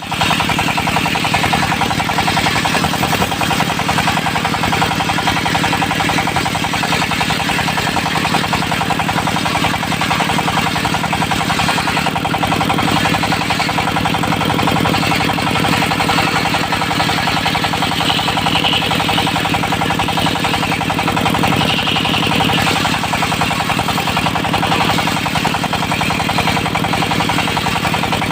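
Diesel engine driving a mobile circular sawmill, running steadily with a fast, even chug. A harsher, higher sound swells briefly about two-thirds of the way through.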